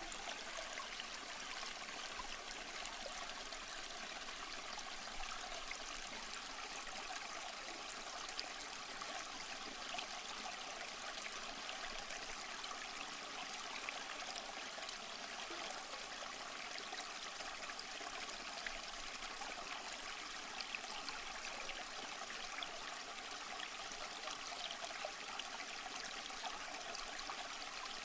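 Small stream flowing and trickling over rocks, a steady even rush of water.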